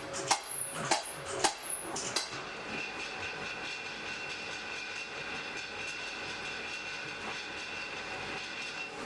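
Hand hammer striking hot iron on an anvil, about four ringing blows in the first two seconds. Then the blows stop and a steady rushing noise with a faint high whine carries on.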